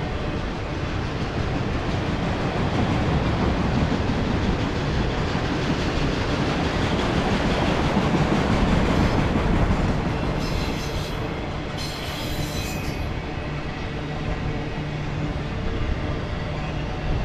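Freight train of enclosed autorack cars rolling steadily past, a continuous rumble and clatter of steel wheels on the rails. Two brief high-pitched wheel squeals come about ten and twelve seconds in.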